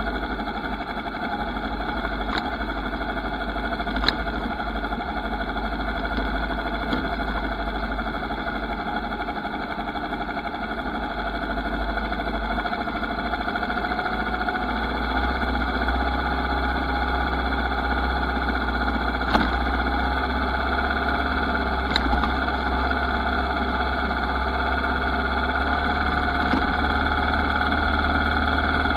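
Motorcycle engine running at a steady pitch, with low wind rumble on the microphone. A few sharp clicks or knocks come through.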